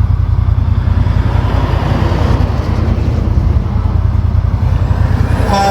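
Heavy diesel semi-truck engine running with a deep, rough exhaust rumble. Music starts near the end.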